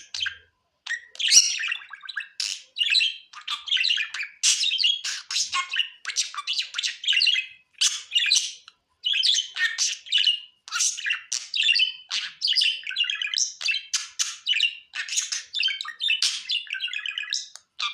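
Budgies chattering: a fast, nearly unbroken run of chirps, warbles and squawky notes.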